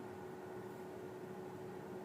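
Faint steady hum with one constant tone and an even hiss underneath, unchanging throughout.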